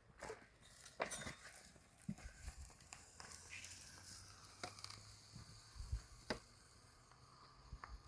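Faint, scattered clicks, taps and knocks with some light rustling, the loudest knocks about a second in and again past the six-second mark: small handling sounds of someone working by hand.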